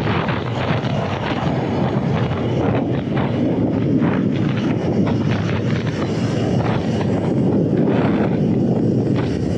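Steady wind noise buffeting the microphone, with a constant low rush and rapid flutter.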